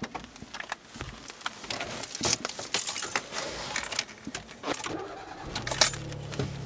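Keys jangling with clicks and rattles. About five and a half seconds in, the 1996 Toyota Supra's 3.0 litre 2JZ-GE inline-six starts and settles into a steady low hum.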